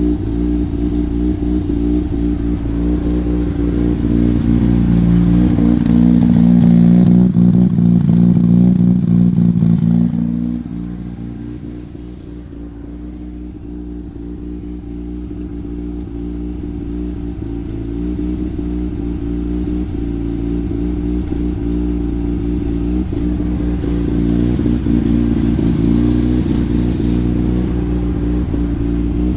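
Mazda RX-8's two-rotor Renesis rotary engine running while the car is driven. Its note swells over the first ten seconds, drops sharply about ten seconds in as the throttle comes off, then slowly builds again.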